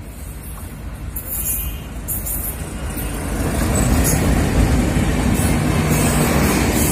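Diesel locomotive approaching at speed and passing close by, its engine rumble growing louder and peaking from about four seconds in, followed by the LHB coaches' wheels running over the rails.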